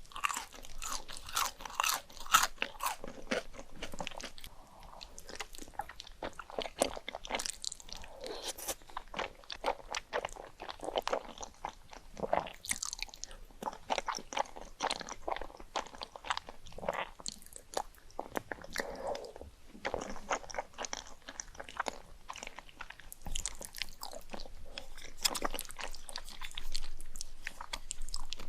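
Close-miked eating sounds: a person taking big bites and chewing, with many crisp, crunchy crackles in an irregular run.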